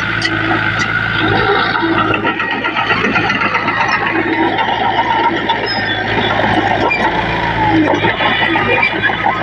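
Diesel engines of heavy earthmoving machinery running steadily under load, a constant low engine note with a dense clattering, rattling layer over it.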